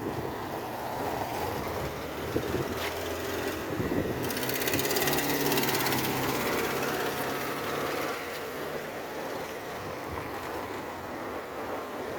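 A motor vehicle's engine hum growing louder and then fading as it passes, with wind noise on the microphone.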